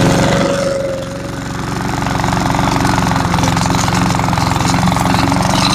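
Cub Cadet walk-behind mower's 173cc PowerMore single-cylinder engine running just after being started. It settles at speed, dipping briefly about a second in, then runs steadily.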